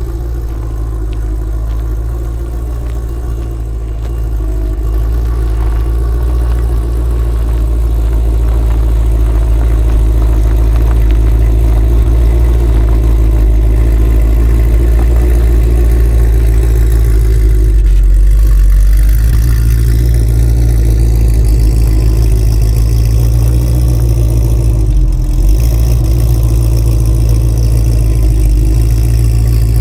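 Car engine running steadily with a low rumble, growing louder about five seconds in.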